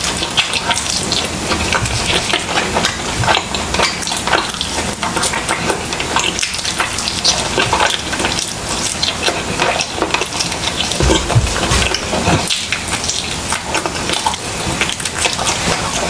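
Close-miked chewing of grilled chicken: wet, smacking mouth sounds and a dense run of small clicks as the meat is bitten and pulled from the bone.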